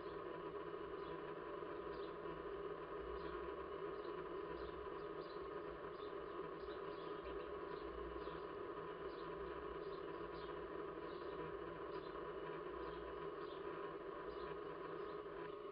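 Small birds chirping, short high notes that drop slightly in pitch, about once or twice a second, over a steady faint hum.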